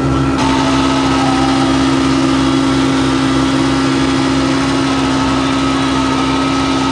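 Tractor engine running steadily, with a constant low rumble and a steady hum.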